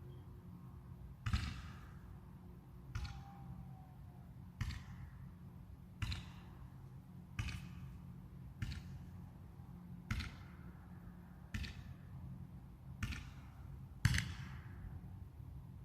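Fireworks going off at a distance: a string of about ten sharp bangs, roughly one every second or so, each trailing off in an echo.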